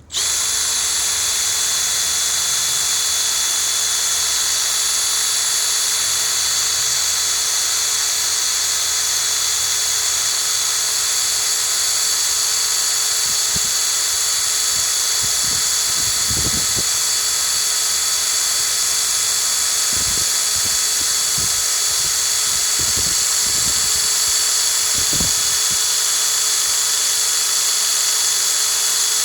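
Cordless drill running steadily at speed, driving the piston pump of a Harbor Freight tire inflator converted for drill drive, pumping up a flat bike tire. It starts abruptly with a steady whine. A few low thumps come through about halfway in.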